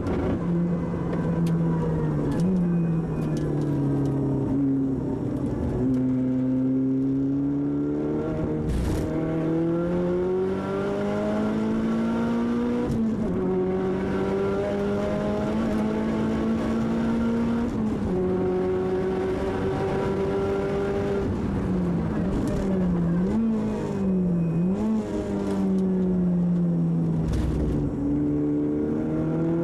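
Turbocharged Audi TT Quattro engine heard from inside the cabin while the car is driven hard on a track. The engine note climbs under acceleration and drops repeatedly at gear changes and under braking. A few sharp cracks fall among the shifts.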